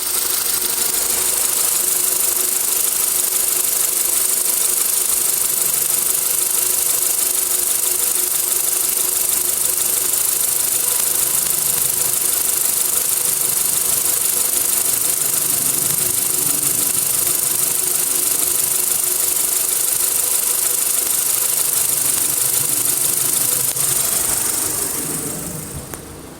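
Renault Duster's 2.0-litre F4R four-cylinder petrol engine idling warm, with the unstable idle and sneezing from the exhaust that its owner is demonstrating; the sound fades away near the end.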